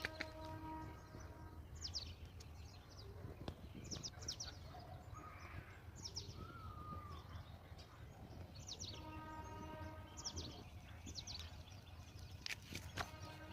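Small birds chirping in short, quick falling notes, repeated every second or two over a steady low hum. Twice a held tone with overtones sounds for a second or so.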